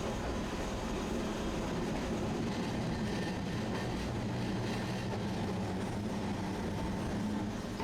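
Tosaden streetcar running steadily along its tracks, with an even rumble of wheels and motor and a low hum.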